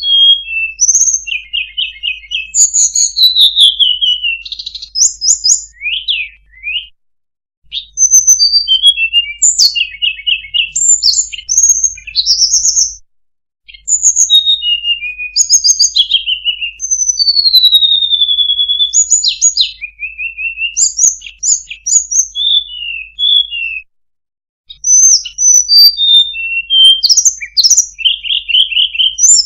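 Recorded song of small songbirds played as a lure call for trapping sulingan/tledekan birds: a dense run of rapid high chirps, quick trills and short whistled glides. It breaks off briefly three times.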